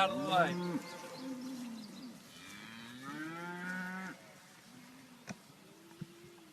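Cattle mooing: several calls one after another, a longer one in the middle and a fainter one near the end, with two short clicks near the end.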